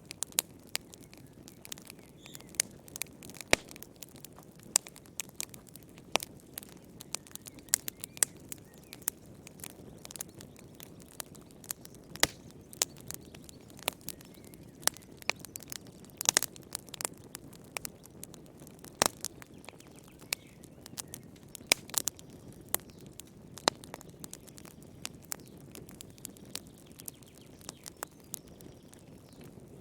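Wood fire in a fireplace crackling, with frequent irregular sharp pops and snaps over a soft low rush of flame.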